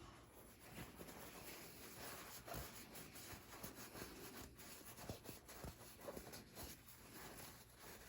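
Faint scratchy rubbing of sandpaper worked up and down through the blade channel of an old Case slimline trapper pocketknife, with a few light clicks.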